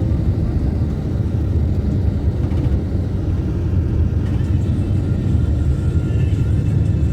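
Steady low rumble of a moving vehicle on the road, road and wind noise.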